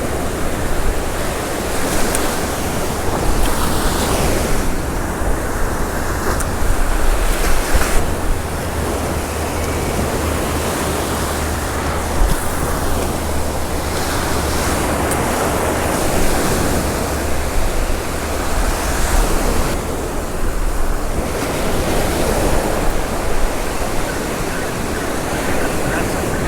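Surf breaking and washing up the beach, swelling and easing every few seconds, with wind rumbling on the microphone.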